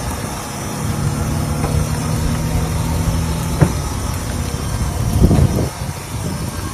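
Tractor engine running, with a steady low drone, a sharp knock about three and a half seconds in, and a louder low surge near the end.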